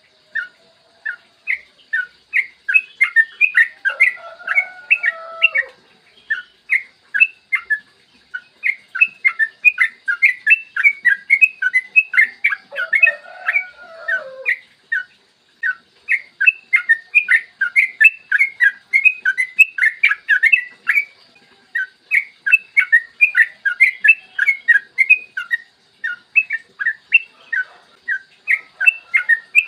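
Yellow-vented bulbul singing long, rapid runs of short chirping notes, several a second, broken by brief pauses. Twice a lower, falling phrase sounds beneath the chirps.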